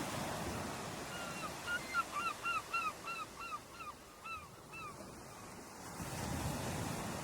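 Ocean surf washing on a beach, with a bird calling in a quick run of about a dozen short, clipped notes, about three a second, that breaks off near the middle; the surf swells again near the end.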